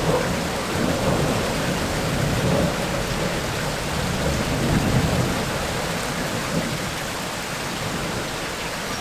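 Steady heavy rain with rolling thunder rumbling under it, the rumble strongest in the first half and easing toward the end.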